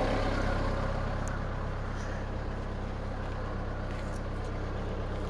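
An engine running steadily at a constant speed, with a low, even hum that eases slightly about a second in.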